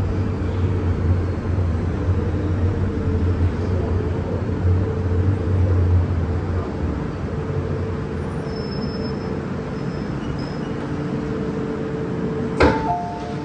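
MTR M-Train electric multiple unit running with a steady low rumble and motor hum that eases off about halfway through. Near the end there is a sharp click, then a two-note falling chime.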